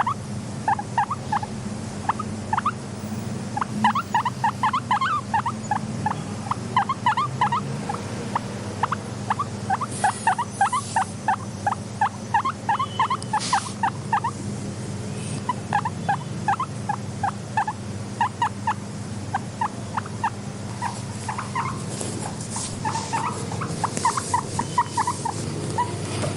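Guinea pigs squeaking in quick runs of short, rising chirps, over a steady low hum.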